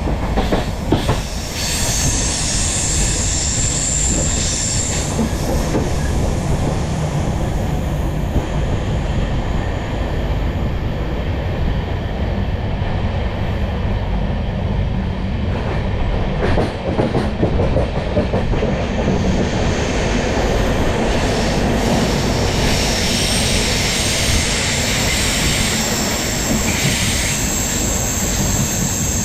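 Passenger coaches of an Intercity Express train running along the track: a steady rumble of wheels on rails, with clattering over rail joints about a second in and again around sixteen to eighteen seconds in. A high-pitched wheel squeal sounds from about two to five seconds in and again through the last ten seconds.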